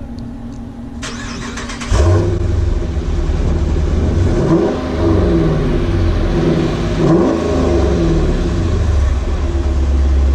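Hemi V8 with a Mopar Stage 1 cat-back exhaust and cold air intake, started with a brief crank about a second in and catching loudly near two seconds. It is then revved twice, rising and falling, and settles into a steady idle near the end.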